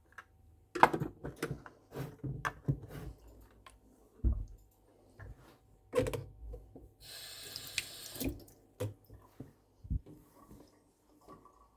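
Kitchen sink tap running briefly, for about a second, roughly two-thirds of the way through. Scattered knocks and clatters of things being handled come before and after it, and the loudest knock is near the start.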